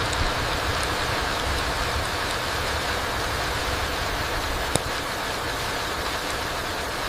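Steady rain falling in a forest: an even hiss with a low rumble, scattered with faint drop ticks and one sharper tick about two-thirds of the way in.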